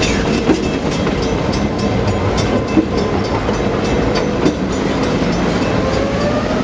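Excursion train rolling along the track, its wheels clicking over the rail joints several times a second in a steady rhythm over a continuous rumble. Faint, thin squealing tones sound now and then.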